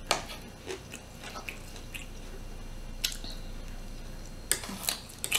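Close-mic chewing and biting of a person eating shrimp, with scattered short mouth clicks.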